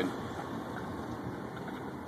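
Steady road and engine noise inside a moving car, an even rumble and hiss with no distinct events.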